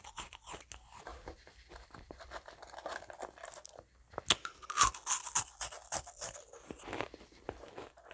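Crisp meringue cookies being bitten and chewed close to the microphone: a steady run of dry crunches and crackles, with the loudest burst of crunching about halfway through.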